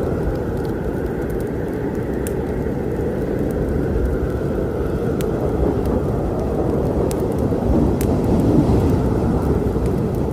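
Heavy rain and low rolling thunder, swelling to its loudest about eight seconds in, with sparse sharp crackles and pops of a wood fire over it.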